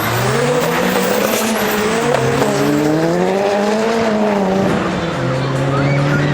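Car engine revving up and down twice, then holding steady, with tyre squeal from a car drifting.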